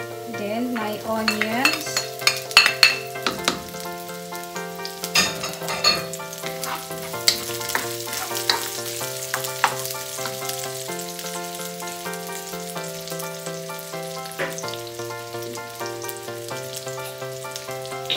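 Sliced red onions and minced garlic sizzling and crackling in hot olive oil in a wok, stirred with a spatula; the crackles are sharpest and loudest between about two and six seconds in, as the onions go into the oil. Soft background music with held chords plays underneath.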